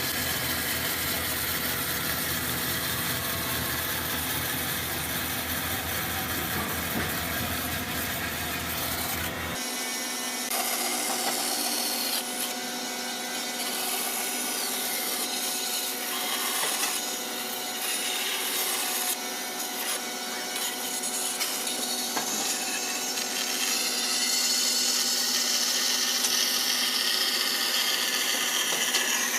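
A power tool cutting or sanding wood, running steadily, with an abrupt change in the sound about ten seconds in.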